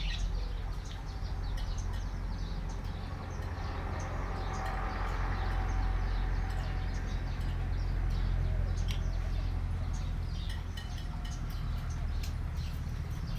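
Birds chirping in short, scattered calls, more of them in the last few seconds, over a steady low background rumble.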